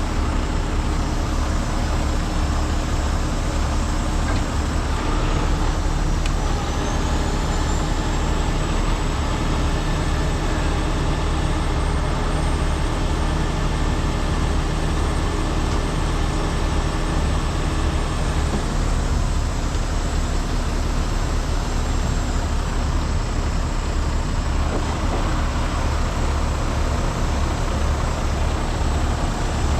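Heavy truck diesel engine running steadily, with a faint high-pitched whine that comes in about six seconds in and dies away after about twelve seconds.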